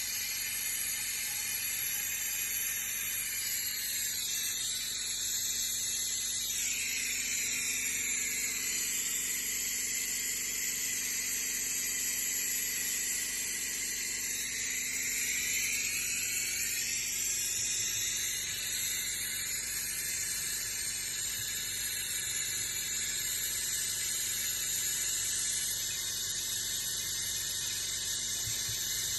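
Toyota Soluna engine running during a decarbonising (engine flush) service, giving a steady high-pitched hiss and whine whose pitch sags a few seconds in and climbs back again around the middle.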